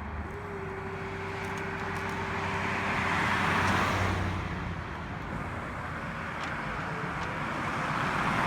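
Road vehicle noise swelling up and fading away twice, about four to five seconds apart, with a thin steady whine through the first few seconds.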